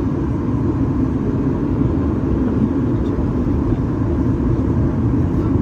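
Steady in-flight cabin roar of a Boeing 737 MAX 8-200, a deep, even rumble of airflow and CFM LEAP-1B engine noise heard from a forward window seat.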